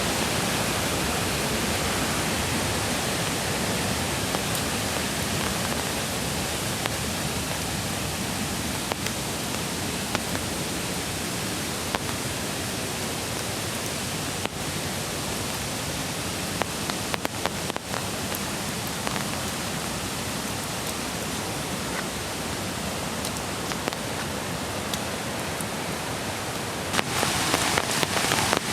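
Mountain creek water rushing steadily over stones. Near the end it grows louder and brighter, with a spattering like rain coming in.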